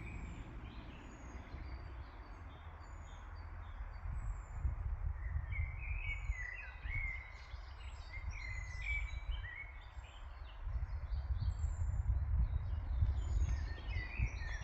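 Several songbirds chirping and singing, with many short, overlapping calls throughout and busiest in the middle. Beneath them a low, gusting rumble swells about four seconds in and again near the end.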